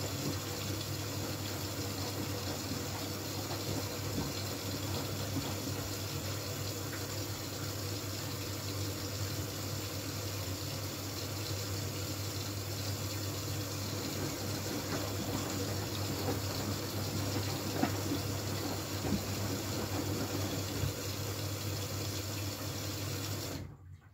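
Miele W433S washing machine taking in water: steady rushing of water into the drum over a constant low hum, which stops abruptly near the end.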